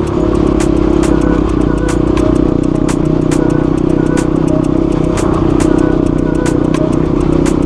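Motorcycle engine running at a steady speed while riding, with no revving, and a few sharp ticks each second over it.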